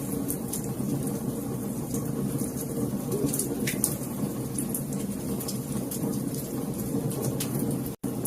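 Wood fire crackling: scattered sharp pops and snaps over a steady low roar of the flames. The sound cuts out for an instant near the end.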